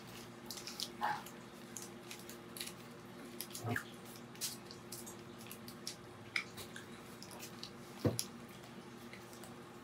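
Faint wet chewing and smacking from two people eating kebab wraps: scattered small mouth clicks, with a few louder bites about a second in, near the middle and near the end, over a faint steady hum.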